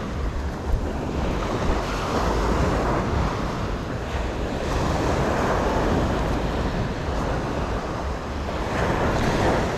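Ocean surf washing ashore in slow swells, with wind rumbling on the microphone.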